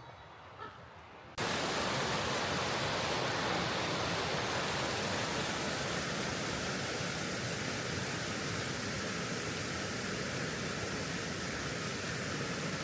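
Steady rushing noise of running water, starting abruptly about a second and a half in.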